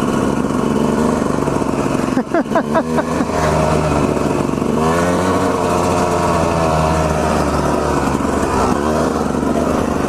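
Two-stroke dirt bike engine running under way, revving up and down in several quick bursts about two to three seconds in, then rising and falling again about five seconds in.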